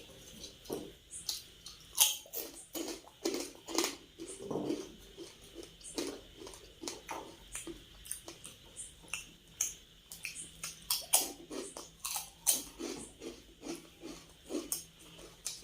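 Close-miked eating sounds: a person chewing and biting food, with irregular wet mouth smacks and clicks.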